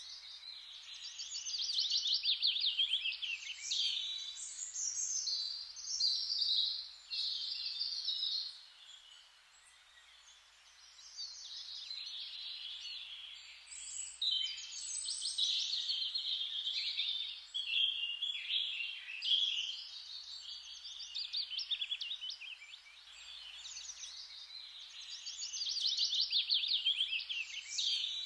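Several songbirds singing together, with fast trills and chirping phrases that overlap almost continuously over a faint hiss. There is a brief lull about a third of the way in.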